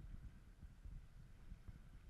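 Near silence: faint, uneven low rumble of wind on the microphone.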